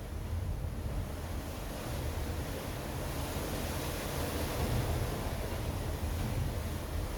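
Ocean surf: waves washing in, slowly swelling louder, with low wind rumble on the microphone.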